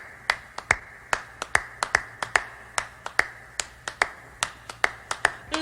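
A rapid, irregular run of sharp clicks or taps, about five a second.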